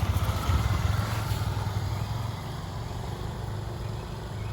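A motor vehicle engine running with a rapid low pulsing, louder for the first two seconds and then fading somewhat.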